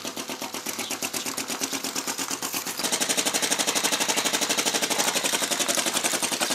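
Small flame-licker (vacuum) engine of a model tractor running, with a rapid even clatter of about eight beats a second that grows louder about three seconds in.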